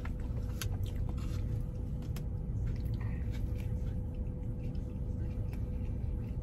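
A person chewing and biting into a burger, with scattered wet mouth clicks and smacks, over a steady low hum in a car's cabin.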